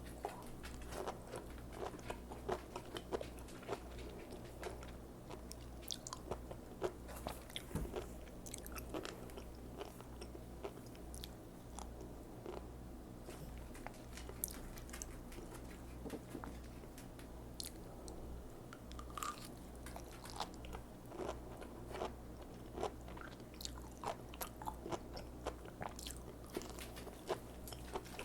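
Close-up chewing of sea grapes: irregular crisp crunches and small clicking pops as the seaweed beads burst in the mouth, over a steady low hum.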